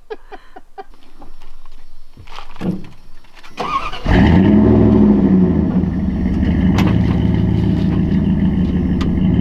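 A motor vehicle's engine starting abruptly about four seconds in and then running steadily, after a few faint clicks.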